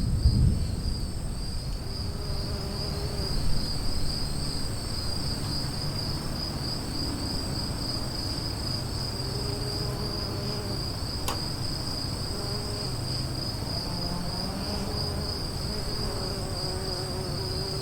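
Insects chirping in a steady, high, pulsing trill over a low rumble of storm ambience, with the rumble a little louder at the start.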